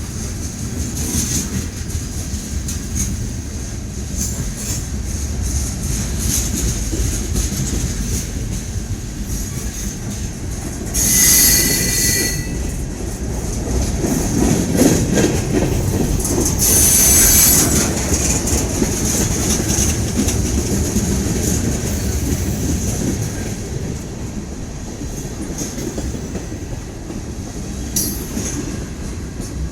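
Freight train cars rolling past over the rails: a steady low rumble with a high wheel squeal. The squeal flares into louder screeches twice around the middle and once briefly near the end.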